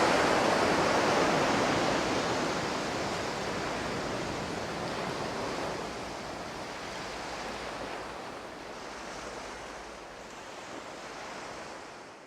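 Ocean surf washing onto a beach with wind blowing, a steady rushing noise that gradually fades out.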